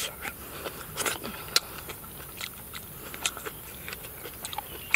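A man chewing and biting pieces of cooked catfish at close range, with irregular sharp mouth clicks and smacks every half second or so.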